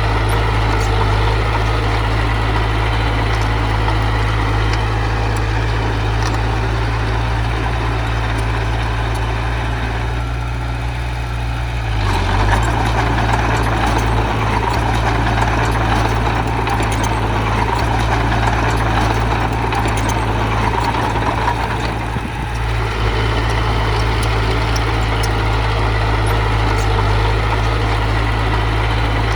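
Diesel engine of a heavy earthmoving machine running steadily. It works harder for about ten seconds, from about twelve seconds in, then settles back to a steady run.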